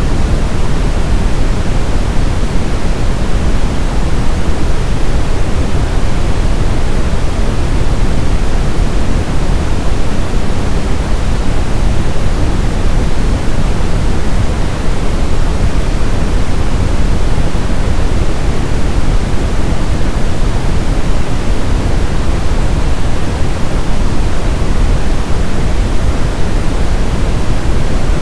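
Brown noise: a steady, loud, deep hiss weighted toward the low end, unchanging throughout.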